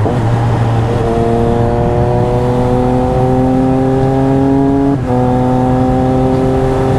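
Triumph Speed Triple RS three-cylinder engine through an SC Project titanium exhaust under way, its pitch rising slowly as it pulls, with a brief dip about five seconds in before it pulls again.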